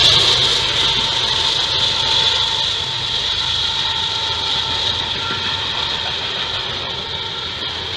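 Union Pacific diesel freight train passing: the lead locomotive's engine rumble, then the steady rolling noise of double-stack container cars, slowly getting quieter.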